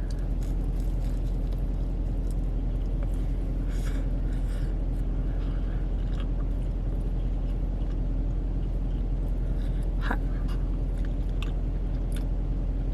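Steady low hum of a car idling, heard from inside the cabin, with a few faint clicks and chewing sounds scattered through it.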